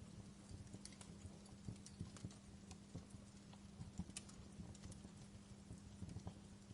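Wood fire burning in a fireplace, crackling faintly with irregular small pops and snaps over a low steady hum.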